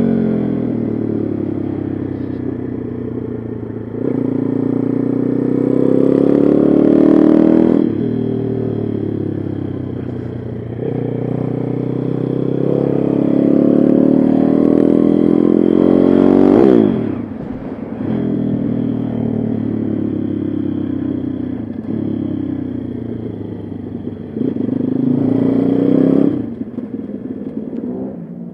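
Pit bike engine under hard acceleration, its note rising in pitch through long pulls and dropping sharply about eight seconds in and again around seventeen seconds in as the throttle is shut or a gear changes, then rising again near the end.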